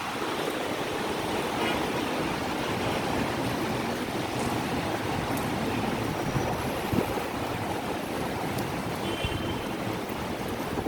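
Heavy rain falling in a steady rush, with no let-up.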